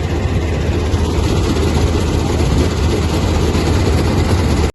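A heavy engine running steadily with a low drone.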